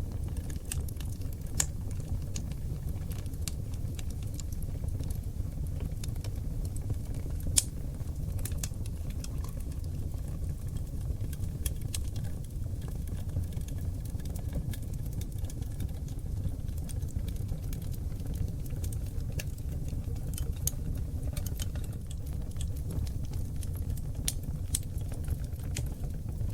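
Oak log fire burning in a fireplace: a steady low rumble of flame with scattered sharp crackles and pops, one louder pop about seven and a half seconds in.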